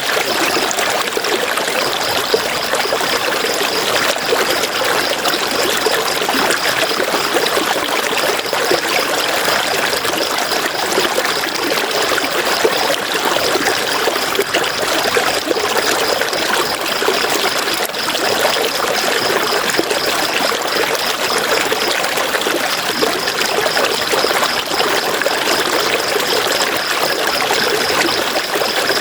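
River water flowing, a steady rushing and trickling with no breaks. Over it runs a high, fast-pulsing buzz, which drops out briefly about 21 seconds in and then resumes.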